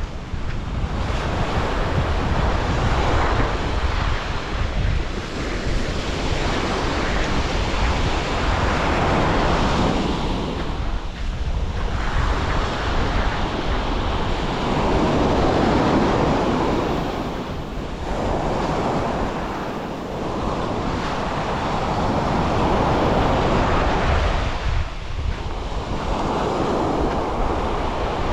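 Waves breaking and washing up a beach, the surf swelling and ebbing every few seconds, with wind rumbling on the microphone.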